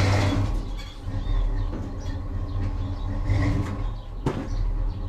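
A vehicle engine running with a steady low rumble, and one sharp knock a little over four seconds in.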